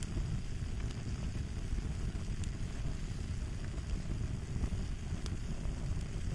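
Crackling fire ambience: a steady low rush of burning with scattered sharp pops and snaps.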